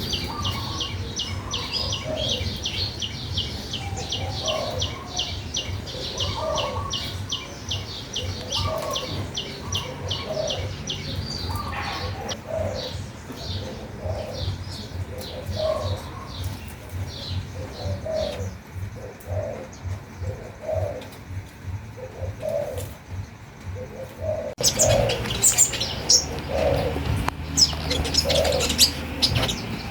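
Birds singing: a rapid series of high chirps, about three a second, over a slower series of lower notes repeating every second or so. The high chirping thins out about halfway through, and about 25 s in the sound changes abruptly to a louder, busier chorus of calls.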